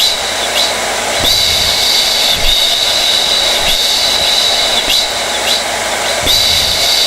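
Hair dryer running steadily: a loud, even rush of air with a high motor whine that fades and returns every second or so.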